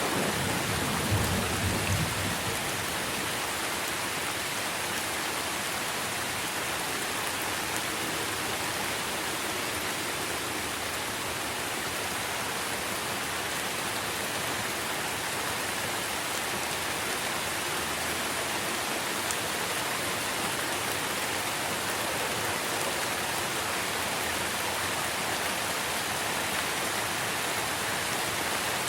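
Steady rain falling on trees, an even hiss of raindrops. A low rumble, likely distant thunder, fades out in the first couple of seconds.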